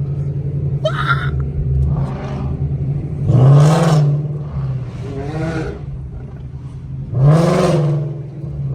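Car engines idling with a steady low hum. An engine is revved hard twice, about three seconds in and again near the end; each time the pitch climbs quickly and then holds briefly, with smaller throttle blips in between.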